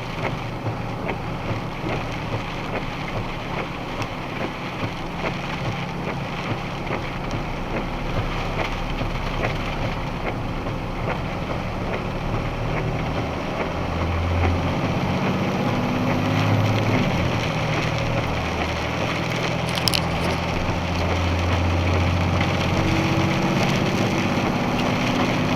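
Box truck running down the road: a steady rumble of road and engine noise, with the engine's low note growing louder and shifting in pitch about halfway through.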